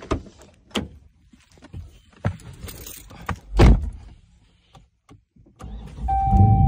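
Clicks, knocks and thuds of things being handled in a car, the loudest a heavy thump about three and a half seconds in. Near the end a loud low rumble starts, with a steady high beeping tone over it.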